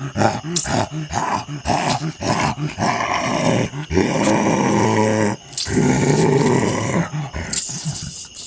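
Loud snarling and growling of a beast-like creature, a run of short choppy snarls with brief breaks about four and five and a half seconds in.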